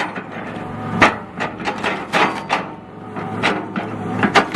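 Hitachi EX200 excavator's diesel engine running steadily while its Lemix stump shear cuts into a stump, giving a string of sharp cracks and knocks of splitting wood and roots.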